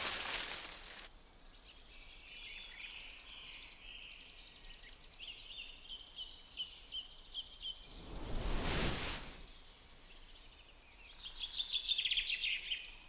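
Small birds chirping and trilling, with a dense burst of rapid chirps near the end. Two brief whooshing swells of noise, one at the start and one about eight seconds in.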